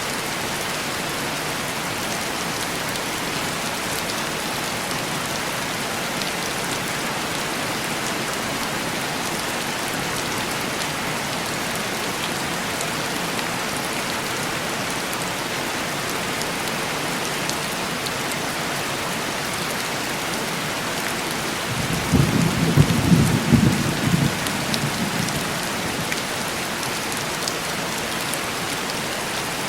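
Heavy rain falling steadily on window glass. A low rumble of thunder rises about three quarters of the way through and fades over a few seconds.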